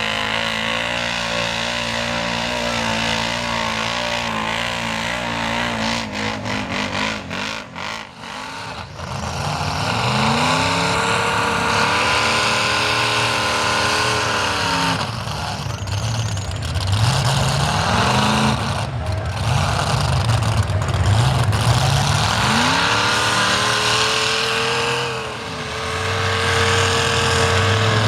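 Mega truck engine running at the mud bog, revved up several times: each rev climbs steeply in pitch, holds high for a few seconds, then drops back.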